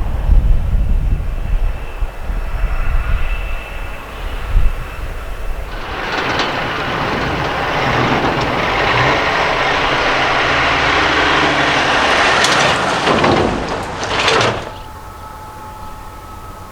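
A big truck passing close by, its engine and tyre noise swelling over several seconds after a low rumble, then cutting off suddenly.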